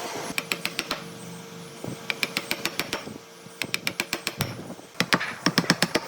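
Quick, light taps on wood in short runs of four to six, each run about half a second to a second long, with pauses between runs.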